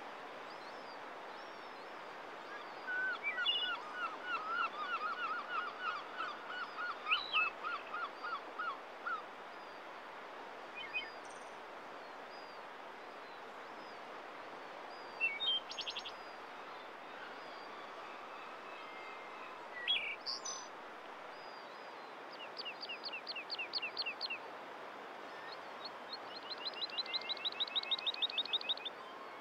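Small songbirds singing over a steady hiss: a long trill of quickly repeated notes, a few short chirps, then two fast, high trills near the end.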